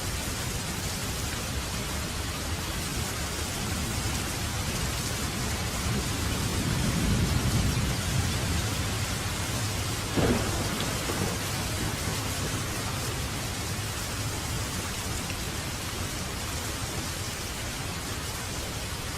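Steady rain with a low rumble of thunder swelling up near the middle, then a sudden sharp sound a little past halfway.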